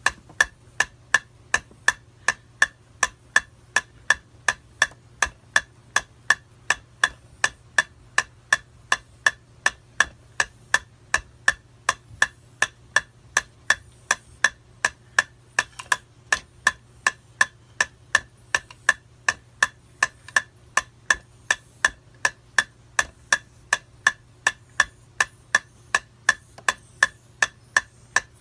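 Metronome ticking at a steady, fairly quick tempo, about two and a half sharp clicks a second.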